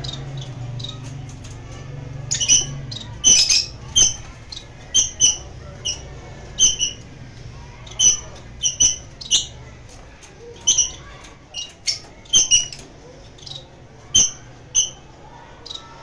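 Caged albino pet birds giving short, sharp, high chirps, singly and in quick pairs, at irregular intervals, over a low hum that fades out about halfway through.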